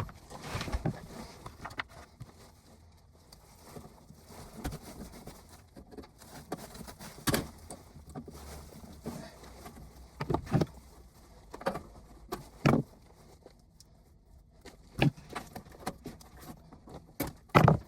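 Hand tools and wiring being handled while the old condensate pump's wiring is disconnected: scattered clicks and rattles, with a few louder knocks now and then.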